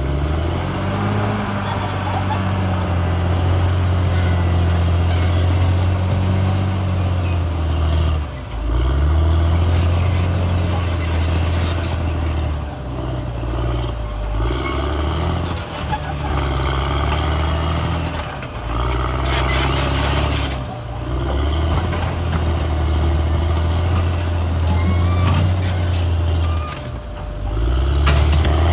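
Bulldozer's diesel engine running under load, with a faint high whine over it; the engine note sags and picks up again four times, as the load comes on and eases off.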